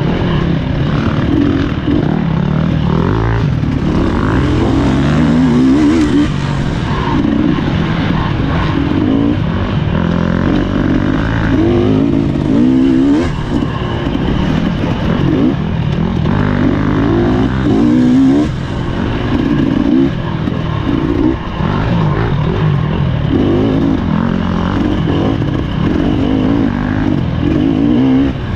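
Husqvarna TE300 two-stroke dirt bike engine running hard, its pitch rising and falling constantly as the throttle is worked on and off over rough trail.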